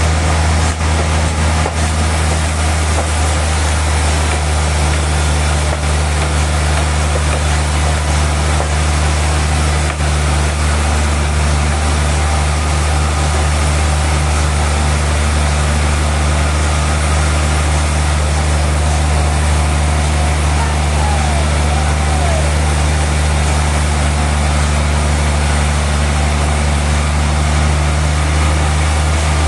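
Sawmill machinery running steadily: a loud, constant low engine hum with a hiss above it.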